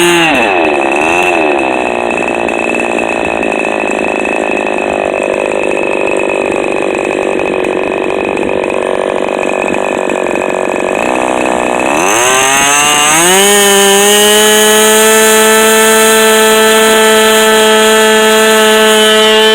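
Fox .45 glow-fuel two-stroke model airplane engine with an APC 10x6 propeller on its first run. It drops from full speed to a slow run right at the start, hunts briefly, runs slowly for about eleven seconds, then is opened up again, its pitch rising over about a second and a half to a steady high-speed run.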